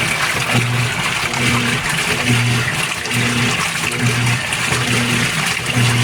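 GE Spacemaker laundry center's top-load washer in its rinse stage: the motor hums in short strokes about once a second as it works the load back and forth, over steady sloshing water.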